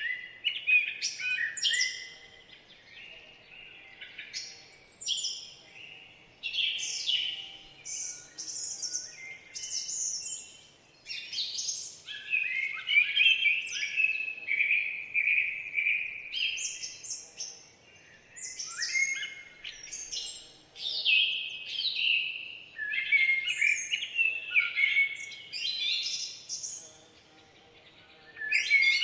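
Songbirds singing in a forest, a dense run of quick chirps and warbled high phrases in overlapping bursts, with short lulls.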